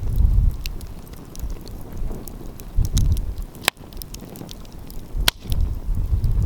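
Wood fire crackling with scattered sharp pops, two louder ones about midway, while wind rumbles on the microphone in gusts.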